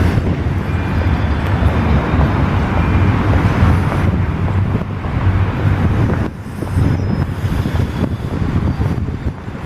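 Steady low rumble of city noise, with wind buffeting the microphone; it dips briefly about six seconds in.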